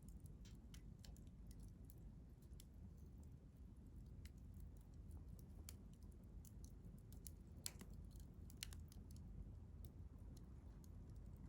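Wood campfire crackling faintly, with scattered small pops and a couple of sharper snaps about eight seconds in, over a low steady rumble.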